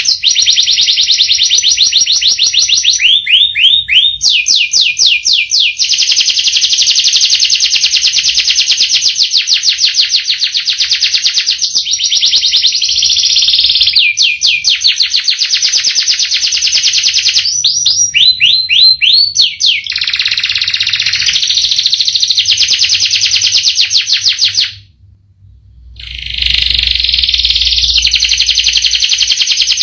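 Domestic canary singing long, very rapid rolling trills, broken a few times by short runs of falling notes, with a brief pause about 25 seconds in.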